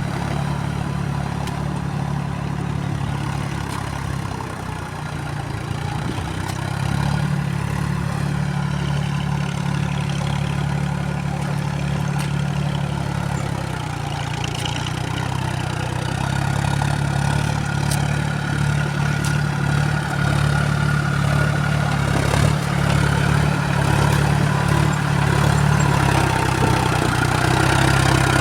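Diesel engines of a JCB backhoe loader and a tractor running together, their note rising and easing with the load as mud is dug and loaded. A steady high whine joins in during the second half.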